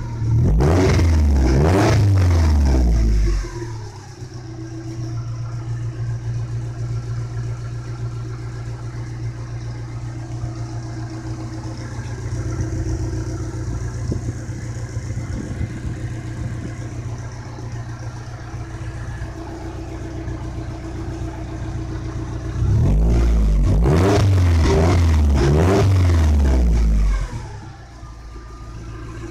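Subaru engine in a VW T25 van, heard close to its chrome exhaust tailpipe: revved up and down several times, settling into a steady idle, then revved again several times near the end before dropping back to idle.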